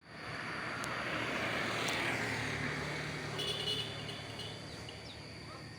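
A motor vehicle passing by, its noise swelling to a peak about two seconds in and then fading away.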